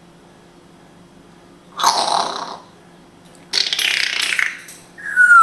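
African grey parrot making two short raspy, hissing noises a second or so apart, then starting a whistle that falls in pitch near the end.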